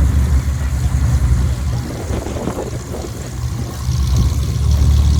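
Light aircraft's piston engine and propeller droning low and steady; the sound dips slightly midway and grows louder again about four seconds in.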